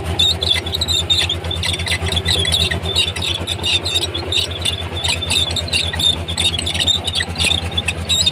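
Komatsu D31P crawler bulldozer working: its diesel engine runs steadily under a dense string of high, irregular squeaks from its steel tracks.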